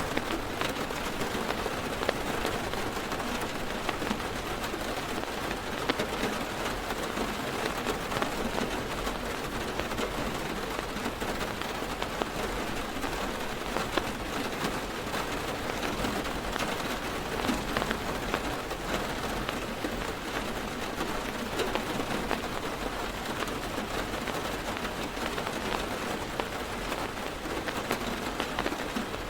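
Heavy rain falling on a parked car's roof and windows, heard from inside the car: a steady, dense patter with many separate drop hits.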